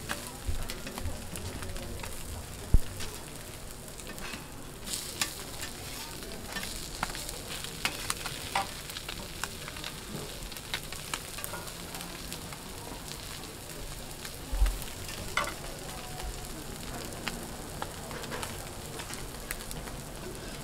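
Battered fish fillets sizzling steadily on a flat-top griddle, with short clicks and scrapes of metal spatulas on the griddle throughout. A sharp knock comes about three seconds in, and a low thump later on.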